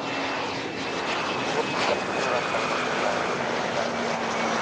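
Aircraft engine running, a steady hum with a faint high whine over a rushing noise, the pitch of both slowly falling.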